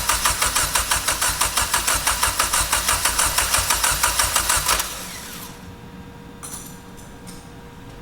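Mitsubishi Lancer Evolution X's turbocharged four-cylinder engine being cranked over by the starter motor with an even, rapid pulsing beat, cutting off about five seconds in without the engine catching. It is the first crank after the wiring harness repair.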